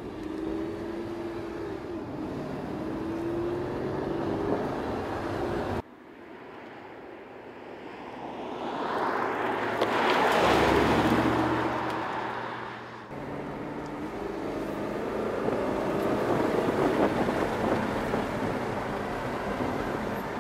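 Audi R8's 4.2-litre V8 heard from inside the cabin, its note rising as the car accelerates. After a sudden cut, the car passes by outside, its engine growing louder to a peak about halfway through and then fading. After another cut the in-cabin engine sound returns.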